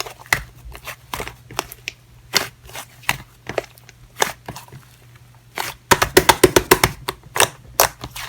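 Slime being pressed and squeezed by hand, giving scattered sticky clicks and pops that turn into a quick run of louder pops about six seconds in.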